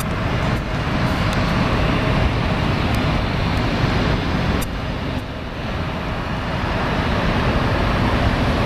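Jet airliner engine noise, a loud steady rush that dips slightly about halfway through.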